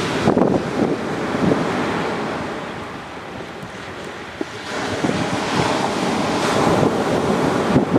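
Waves washing onto a sandy beach, with wind buffeting the microphone; the surf eases off a few seconds in and swells again about five seconds in.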